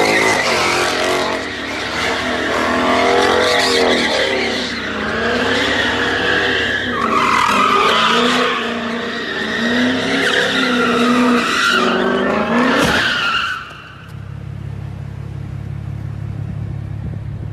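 Car engines revving up and down with tyres squealing and skidding. About thirteen and a half seconds in, the sound cuts to a quieter steady low rumble.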